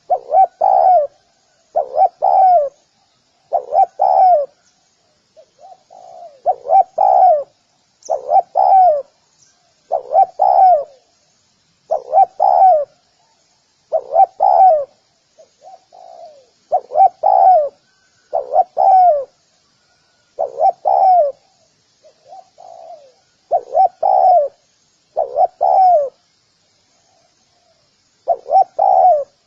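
Spotted dove cooing over and over, a low phrase of a few notes repeated about every one and a half to two seconds, some phrases led by softer notes.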